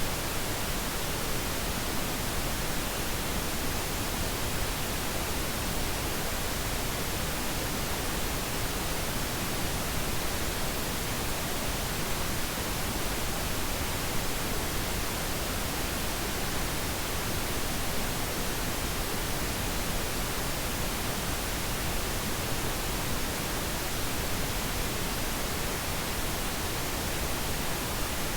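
Steady, unchanging pink noise: an even hiss spread across all pitches, with nothing else in it.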